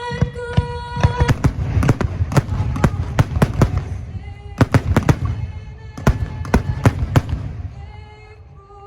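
Fireworks going off: dozens of sharp bangs in rapid clusters, thinning out near the end, with music playing underneath.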